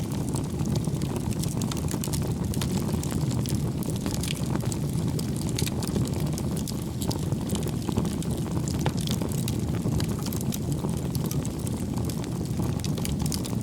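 Firewood burning in a fireplace, crackling with frequent short sharp pops over a steady low rumble.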